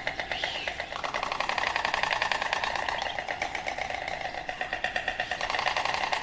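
Stork clattering its bill, a rapid, even machine-gun-like rattle that goes on without a break.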